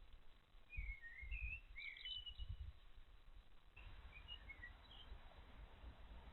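Small garden birds chirping faintly: short, scattered high calls, more of them in the first half. A low rumble runs beneath.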